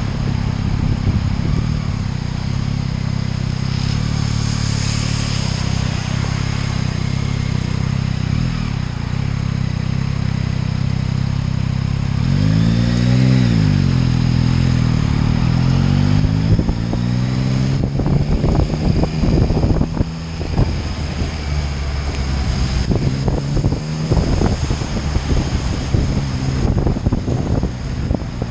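Motorcycle engine running steadily under way, with the revs rising and falling once about twelve seconds in. Choppy, rough noise joins it in the second half.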